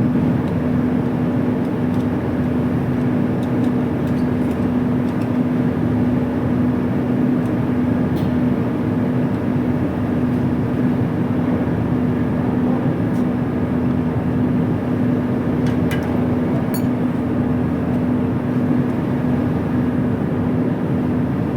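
Steady hum of running industrial machinery, with a constant low tone over a dense mechanical noise and a few faint clicks.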